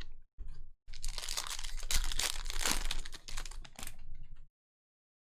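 Crinkling and tearing of a foil trading-card pack wrapper being ripped open, a dense crackle that stops abruptly after about three and a half seconds.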